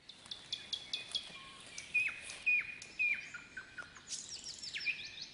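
Birds chirping and calling: a quick run of short, sharp chirps, then clear whistled notes that each drop sharply in pitch at the end, with a flurry of rapid chirps near the end.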